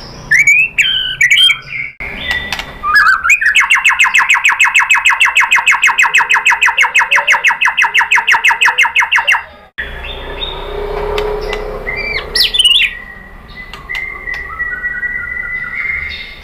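White-rumped shama (murai batu) singing: a few quick sweeping whistles, then a fast, perfectly even rattle of repeated notes lasting about six seconds, which stops abruptly. After a few chirps comes a long, thin, held whistle.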